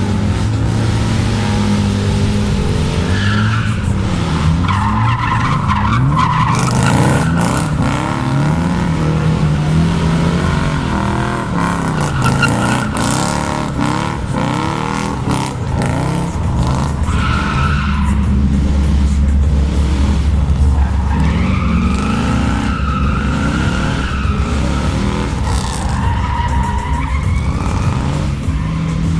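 Mercedes V8 drift car sliding, its engine revving up and down again and again over the squeal of tyres. Midway a steady deep engine drone holds for a few seconds.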